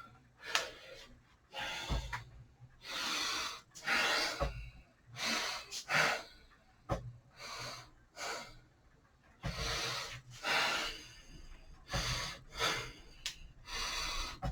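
A person breathing audibly in a string of irregular noisy breaths, roughly one a second.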